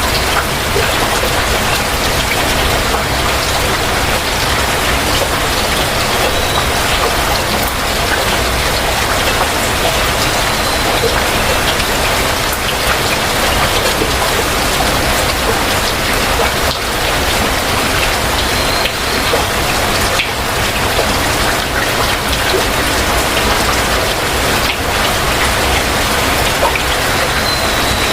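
Heavy rain falling steadily and splashing on surfaces, a dense even hiss. A faint short high bird chirp comes through the rain about four times.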